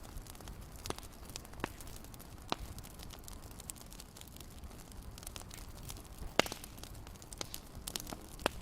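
Wood fire in a fireplace crackling: irregular sharp pops and snaps over a low steady rumble, with one louder pop about six and a half seconds in.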